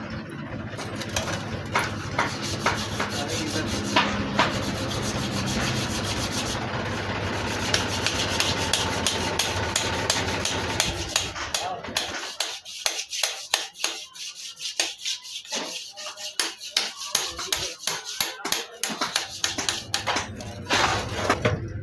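Quick, repeated rubbing or scraping strokes during tractor brake work. For about the first half a steady low hum runs beneath them, and it stops about halfway through.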